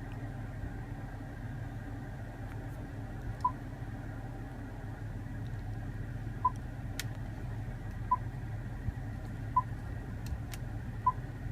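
Short single electronic beeps, about five of them spaced a second or two apart, from the Range Rover's touchscreen as surround-camera views are selected. Under them runs the steady low hum of the idling engine, heard inside the cabin.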